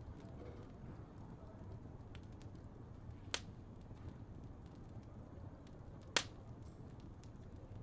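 Fireplace fire burning with a low steady rumble and faint crackles, and two sharp pops a few seconds apart, the second louder.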